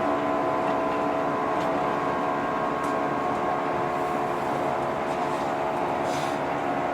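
Running sound inside a JR 115 series electric train between stations: a steady whine from the motors and gears with several even tones over continuous rolling noise, plus a faint tick about six seconds in.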